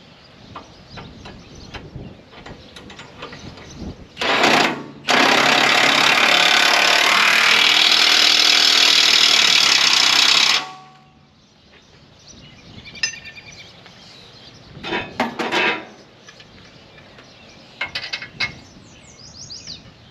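Impact wrench running on a loader-bracket bolt: a short burst, then a steady hammering run of about five seconds that stops abruptly, tightening the bolt. A few short clanks of tools on metal follow near the end.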